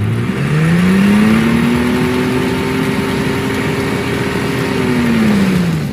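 A car engine revs up and is held at high revs through a burnout, with the spinning rear tyre hissing over it. The revs drop away near the end.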